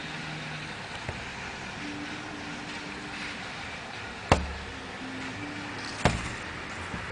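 Steady background hiss with a faint low hum, broken by two sharp knocks about four and six seconds in, and a couple of lighter clicks.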